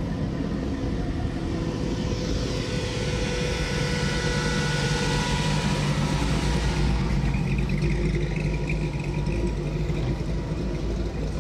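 A motor vehicle passing close by with its engine running: a hiss that swells over a few seconds and then fades, over a steady low engine hum.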